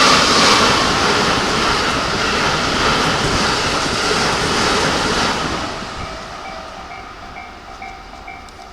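A train running past a railway level crossing, its steady wheel-on-rail noise fading away about five or six seconds in. As it dies down, the crossing's warning bell comes through, ringing in even, repeating dings.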